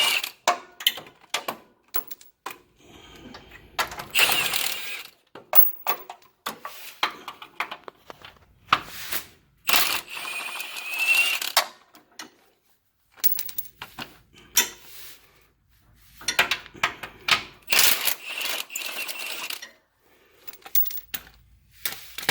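Cordless impact wrench running in several short bursts, its motor whining and hammering as it backs out a riding mower's engine mounting bolts, with sharp clicks and rattles of the socket and bolts between bursts.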